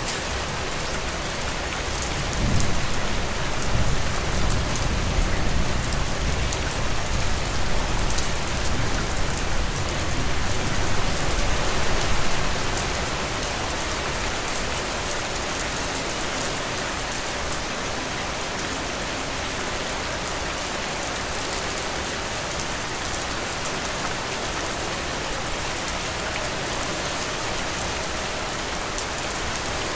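Heavy rain falling steadily: a dense, even hiss with fine patter of drops. From about two seconds in, a low rumble swells under the rain and fades away about twelve seconds in.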